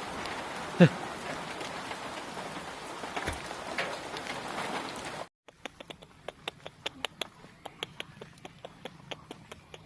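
Steady rain falling, with a short falling cry about a second in. After about five seconds the rain cuts off abruptly, and quieter, irregular sharp clicks follow.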